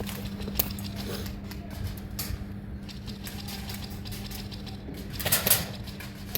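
Scattered clicks and rattles over a steady low hum, with a louder burst of noise about five seconds in.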